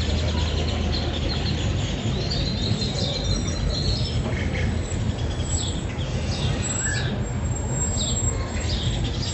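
Birds chirping in trees, a run of short falling high chirps from about three seconds in, over steady outdoor background noise.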